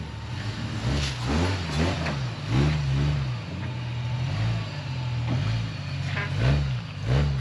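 An off-road vehicle's engine revving in short blips, its pitch rising and falling several times as it is worked over rough trail.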